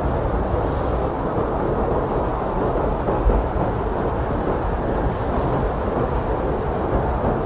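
Blizzard wind blowing hard and steadily, a dense low rushing roar with a brief stronger gust about three seconds in.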